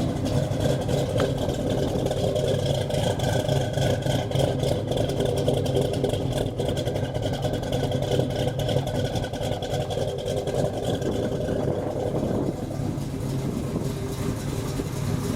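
Chevy 454 big-block V8, bored to 468 cubic inches, idling steadily.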